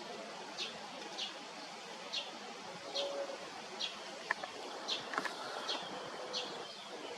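A bird repeatedly giving short, high chirps, one about every second or less, over a steady background hiss, with two sharp clicks near the middle.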